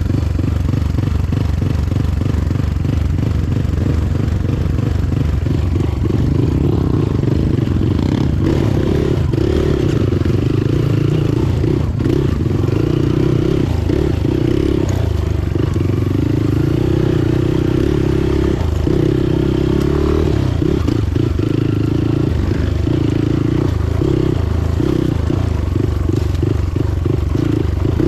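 Motorcycle engine running steadily while riding, with a low drone whose upper note swells and fades from time to time.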